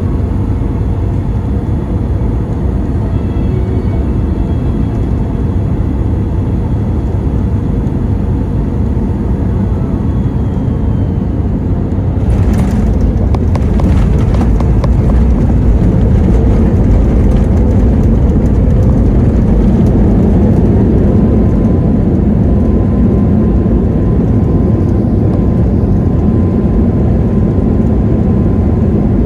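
Boeing 737-8 MAX's CFM LEAP-1B jet engines and airflow during landing: a loud, steady low rumble that grows louder about twelve seconds in after a brief crackle, with a faint steady whine joining about twenty seconds in.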